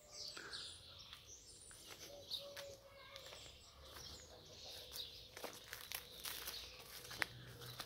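Faint background birds chirping, with scattered light clicks and rustles, the sharpest of them about two and a half and seven seconds in.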